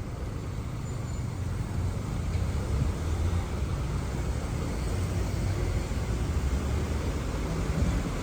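Road traffic on a busy city avenue: a steady low rumble of passing cars and buses that grows a little louder about two seconds in.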